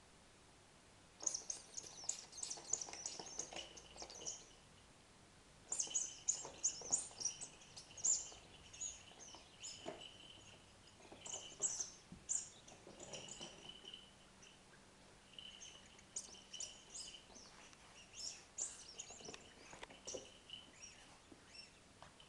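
Bird-like chirping and twittering in quick high bursts, again and again, with a steadier high whistle running under some of the bursts.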